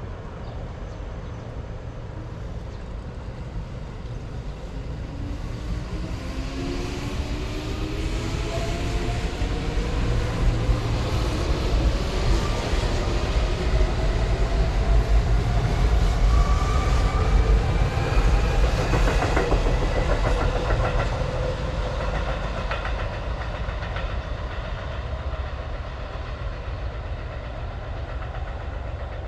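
Electric commuter train pulling away from the platform. The traction motors whine in several tones that rise steadily in pitch as it speeds up, over a heavy rumble, with wheels clacking over rail joints as the loudest part goes by, then fading.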